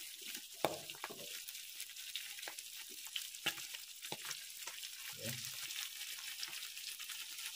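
Pork pieces with onion and garlic frying in hot oil in a black kadai: a steady sizzling hiss with scattered crackling pops.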